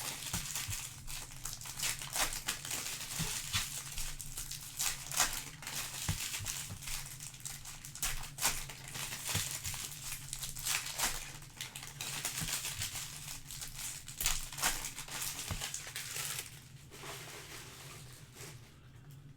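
Trading card pack wrappers crinkling as they are handled and torn open, in a run of irregular sharp crackles that dies down about three seconds before the end.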